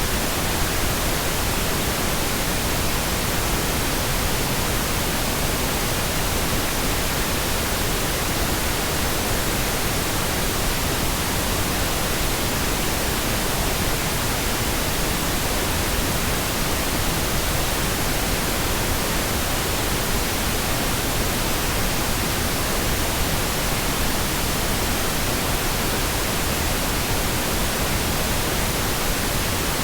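Steady, unchanging electronically generated pink noise, an even hiss spread across the whole frequency range with no events or changes.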